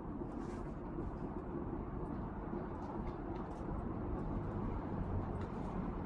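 Wind buffeting the microphone: a steady low rumbling noise, with a few faint light ticks now and then.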